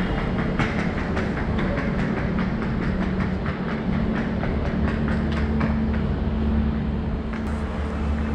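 Train running along the track: a steady hum with many quick clicks from the wheels on the rails.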